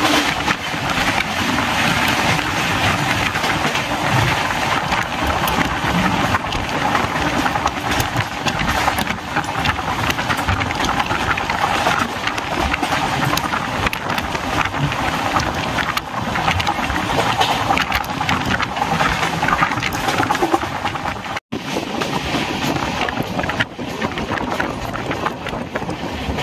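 Express train running at speed: a steady rush of wheels on rails with wind buffeting the microphone, broken by a brief cut about 21 seconds in.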